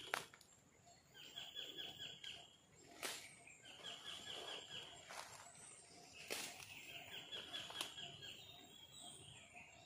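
A bird calling in forest: short rapid trills of quick repeated high notes, each about a second long and coming about every three seconds, the last one sliding down in pitch. A few sharp clicks or snaps sound in between, the loudest right at the start.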